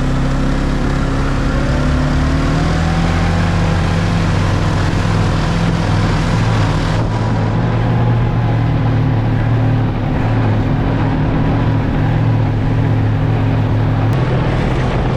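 Snowmobile engine running steadily at speed, riding a rough trail.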